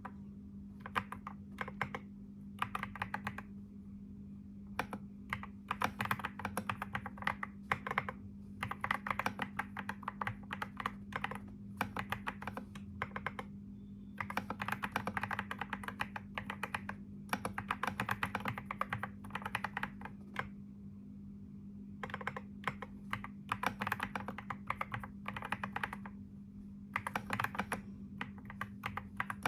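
Typing on a computer keyboard: quick runs of keystrokes broken by short pauses of a second or so, over a steady low hum.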